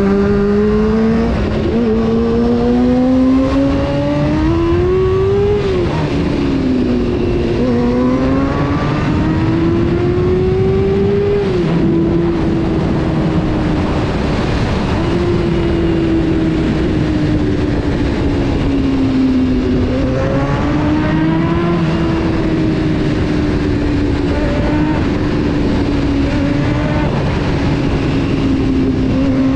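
Honda CBR600 F4 inline-four engine heard while riding, pulling up through the revs twice in the first twelve seconds with a drop in pitch after each climb, then easing and slowly falling before climbing again near the end. Wind and road noise run underneath.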